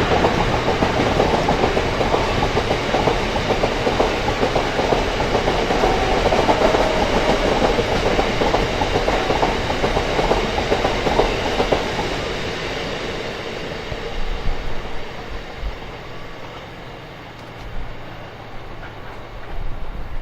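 Freight train wagons rolling past behind a Class 66 diesel locomotive, their wheels clattering rhythmically over the rail joints. The sound fades away after about twelve seconds as the train draws off.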